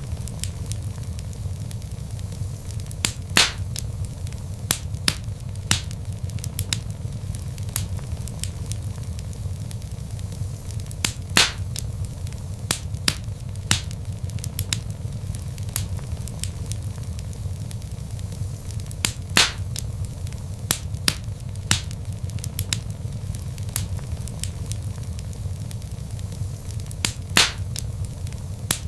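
Log fire crackling in a fireplace: a steady low rumble of flames with frequent sharp snaps and pops, and a louder pop about every eight seconds.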